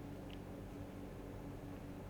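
Steady low room hum and microphone noise during a pause in typing, with a single faint click about a third of a second in.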